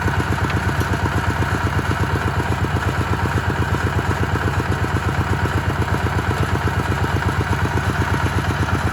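Kubota RT140 single-cylinder diesel engine running steadily, with a rapid, even chugging beat.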